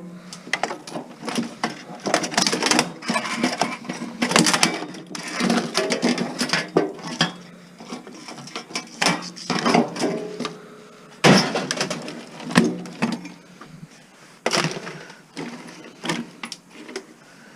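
Clatter of metal and plastic stereo parts being handled and pulled apart during scrapping: irregular clicks, knocks and scraping, with a sharp knock about eleven seconds in.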